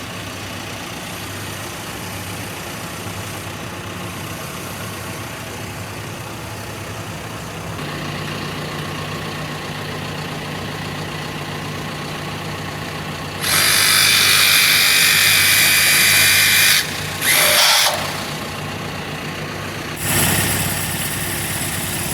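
An engine idling steadily, with three loud bursts of a power tool or air tool over it: a long one past the middle, a short one just after, and another near the end.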